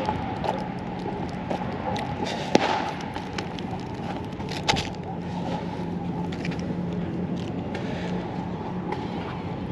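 Fireworks popping in the distance over a steady outdoor background noise, with a few sharp bangs, the loudest about two and a half seconds in and just before five seconds in; a low steady hum sits under the middle of it.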